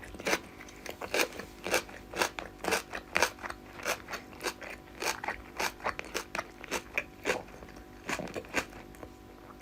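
A person chewing food close to the microphone, with crisp crunches about twice a second.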